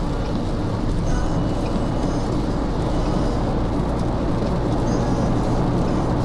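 Steady road and tyre noise with a low rumble inside the cabin of a Proton S70 cruising at highway speed.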